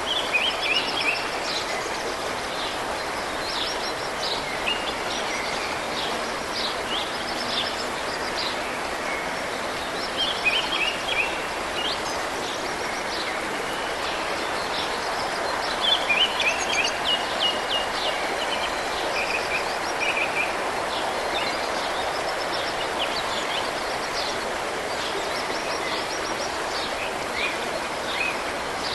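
Steady rush of flowing water, with small birds singing over it in quick series of high chirping notes that come and go every few seconds.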